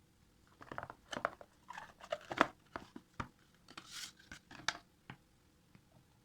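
Irregular handling noises: a quick run of small clicks, knocks and rustles, the loudest knock about two and a half seconds in.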